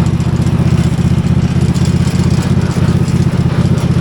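16-horsepower Briggs & Stratton V-twin engine running steadily through a 2-inch exhaust pipe, its rapid even pulses holding one speed. It turns an Iseki tractor's original diesel crankshaft and drivetrain through dual belts.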